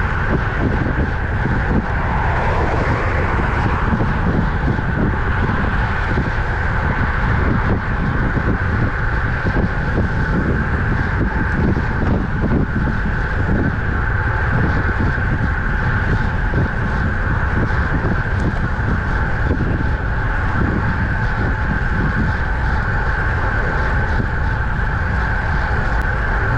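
Steady wind rushing over the microphone while cycling on a road bike at speed, with road noise mixed in.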